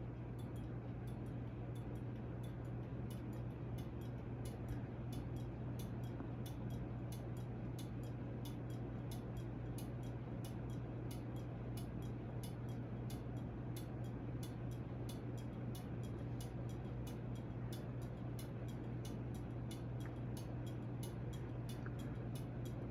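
CEI-made Hampton Bay Carousel ceiling fan running: a steady motor hum with a light, even ticking about three times a second.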